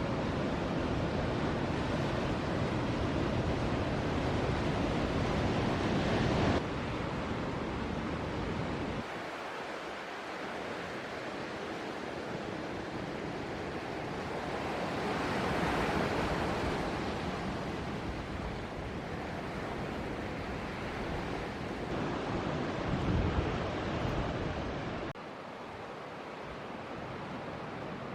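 Ocean surf: waves breaking and washing, with wind buffeting the microphone, heaviest in the first third. The sound changes abruptly several times, as if cut between shots, and swells loudest about halfway through as a wave breaks.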